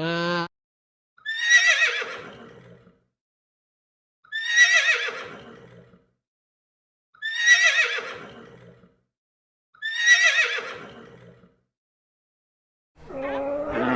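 A horse whinnying four times, about every three seconds: four near-identical whinnies, each starting high and quavering, then trailing off lower.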